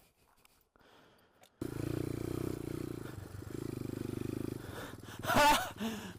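Pit bike engine cutting in suddenly after a second and a half of near quiet, then running steadily. Near the end, a brief loud vocal outburst from a rider.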